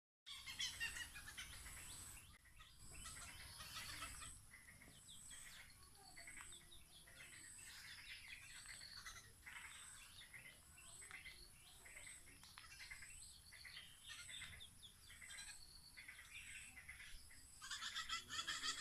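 Rufous treepies calling: a run of short, repeated bird calls, with a thin high-pitched peep repeating about every two-thirds of a second behind them.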